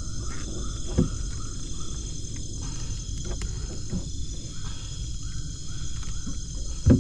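A steady night chorus of crickets and other insects trilling, with a shorter call repeating a few times a second beneath it, over a low rumble. A sharp knock sounds about a second in and another near the end.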